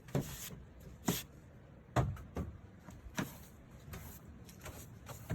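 A series of short, sharp scrapes and knocks, roughly one a second, the loudest about two seconds in.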